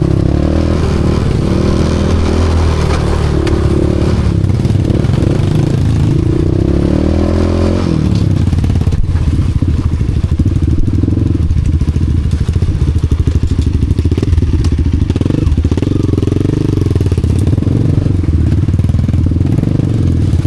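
Off-road-modified Honda Wave 125 motorcycle's single-cylinder four-stroke engine running under load on a rough trail, revs rising and falling, with a few brief knocks.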